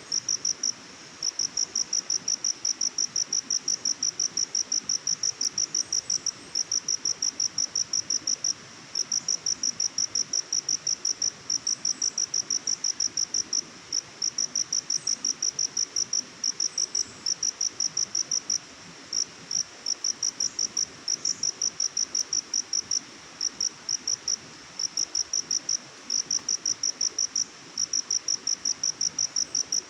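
Cricket chirping: long trains of rapid, evenly spaced high-pitched pulses, broken by short pauses every few seconds, over a faint steady hiss.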